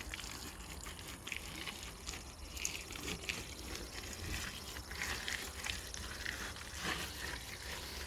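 Wet clay-and-horse-manure plaster being smeared by hand over rough-sawn wooden boards: irregular soft smearing and scraping sounds with small clicks.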